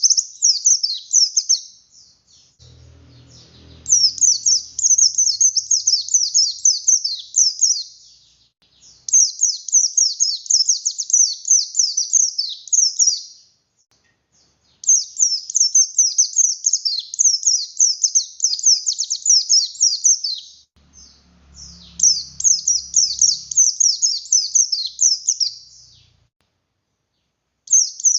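A pleci buxtoni white-eye singing hard: fast, high, chattering twitters in long runs of a few seconds each, with short pauses in between.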